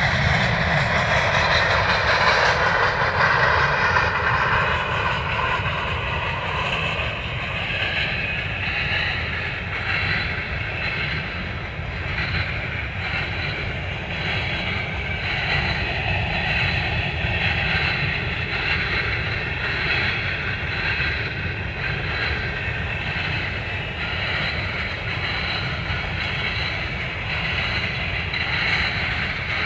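Empty coal hopper cars of a freight train rolling past: a steady rumble of steel wheels on the rails, a little louder in the first few seconds.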